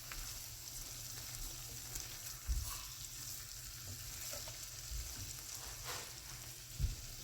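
Chili chicken and sauce sizzling in a frying pan, a steady hiss, with a utensil stirring it and knocking against the pan now and then, most clearly about two and a half seconds in and again near the end.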